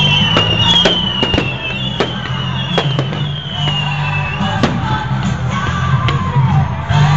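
Fireworks display: a string of sharp bangs, with high whistles falling in pitch in the first few seconds, over loud music with a heavy bass.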